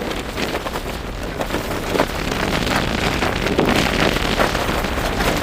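Strong storm wind buffeting the microphone and shaking a tent, a dense rushing noise full of rapid crackles and flaps.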